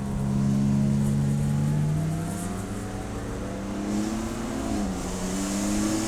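Race car engine pulling hard: a steady note that climbs in pitch about two seconds in, drops briefly near five seconds at a gear change, then climbs again.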